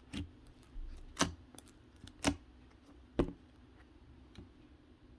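Slime being played with by hand, giving a handful of sharp clicking pops about a second apart.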